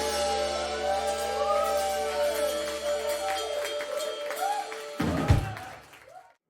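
Live rock band holding the closing chord of a ballad, with a wavering, bending lead line over a steady held note. A final loud hit lands about five seconds in, and the sound dies away quickly after it.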